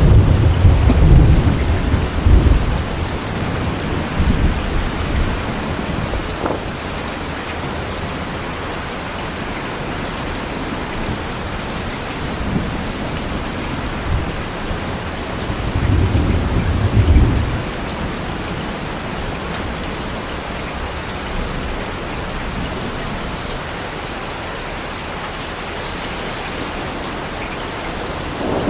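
Steady rain falling, with thunder rumbling low in the first few seconds and again about two-thirds of the way through.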